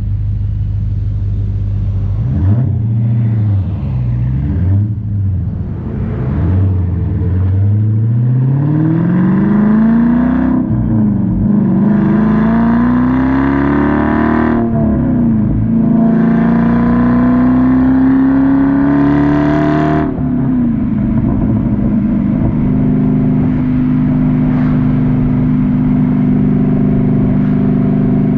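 2009 Dodge Challenger SRT-8's 6.1-litre Hemi V8 exhaust under normal acceleration. The engine note climbs in pitch and drops sharply at each upshift, three times. It then settles to a steady, even drone at cruising speed.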